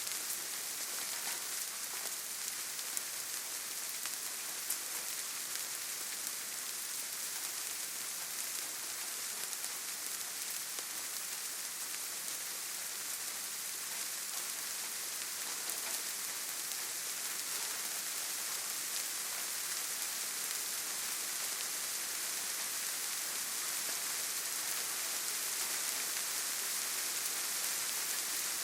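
Steady gentle rain falling on leaves and forest ground, an even hiss with a few faint separate drops.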